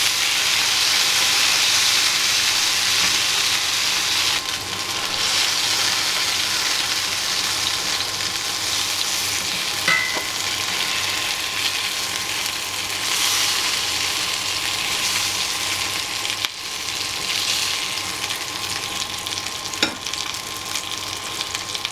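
Chicken pieces frying in hot fat in a pan, a loud steady sizzle with spitting that swells and eases several times, with a few light clicks.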